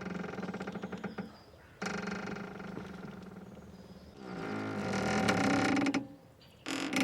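Boat rope creaking and squeaking under strain, in about four drawn-out creaks of one to two seconds each with short gaps between. The last creak starts near the end.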